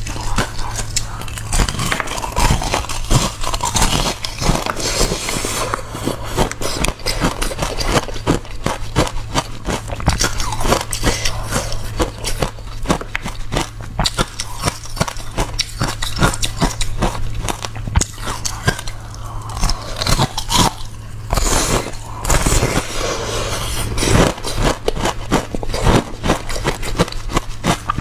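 Close-miked chewing of crunchy ice: a dense run of sharp crackling crunches, bite after bite, over a steady low hum.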